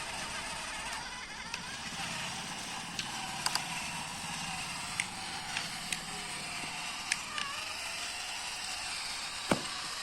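Tractor engine running steadily, heard as a low hum under a steady hiss, with several sharp clicks scattered through it and one louder click near the end.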